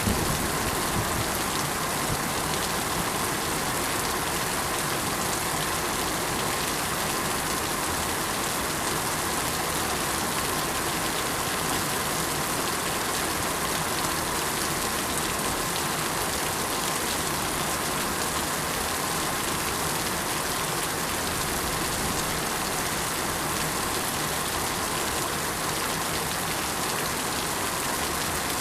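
Steady, even rain falling, a dense hiss of raindrops on surfaces.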